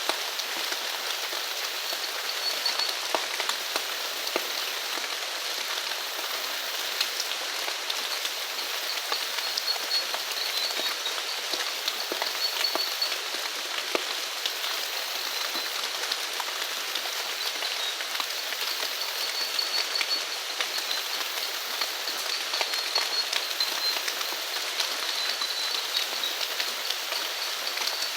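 Steady rain falling, with many separate drops striking close by. A faint high trill comes and goes over it.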